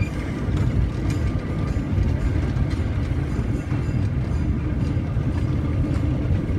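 Small ride train's open cars running along the track: a steady low rumble of wheels and running gear with light mechanical rattling and clicks.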